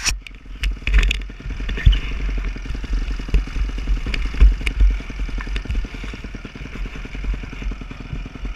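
Dirt bike engine idling with an even, rapid firing pulse, picked up by a helmet-mounted GoPro. Sharp clicks about the first second and heavy low thumps on the microphone sit over it.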